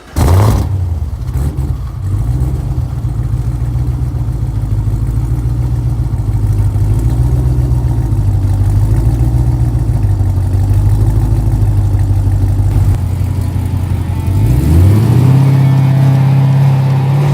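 Twin-turbo V8 of a 2017 Camaro ZL1 firing up and settling into an uneven, wavering idle. About three seconds before the end the revs rise and hold at a higher, steady speed.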